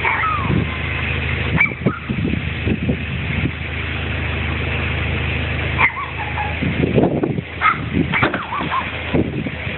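Boat engine idling with a steady low hum, with short high chirps and scattered knocks over it; the hum is less clear after about six seconds.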